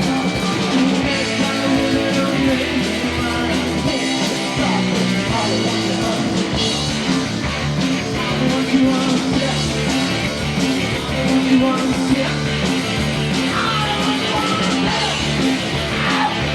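Live rock band playing a passage between sung lines: electric guitars over bass guitar and drums with a steady beat.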